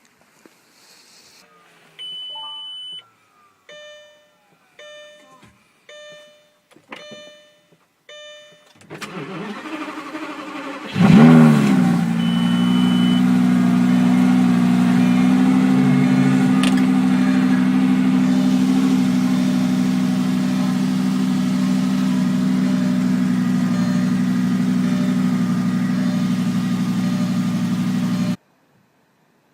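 A car cold-started in deep frost: a dashboard beep, then about six short warning chimes roughly one a second. The starter cranks for about two seconds, and the engine catches with a brief rev flare and settles into a steady idle.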